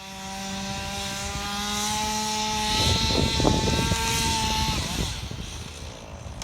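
Two-stroke chainsaw running at high revs, its pitch creeping up, with a louder, rougher stretch about three seconds in before it drops back.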